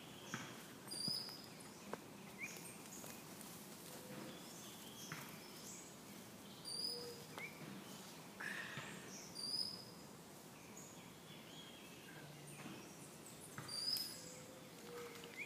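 Wild birds calling in woodland: a short, high chirping call repeated every two to three seconds, with other scattered chirps and whistles.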